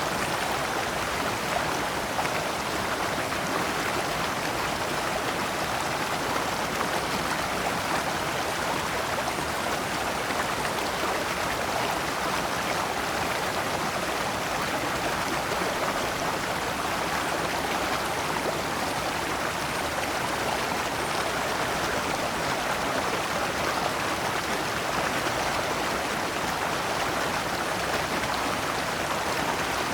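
Shallow rocky stream flowing steadily over stones in small cascades, an even rushing and babbling of water.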